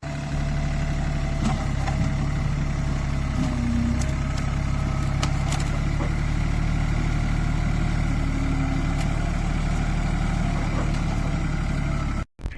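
Vehicle engine idling steadily, cut off abruptly near the end.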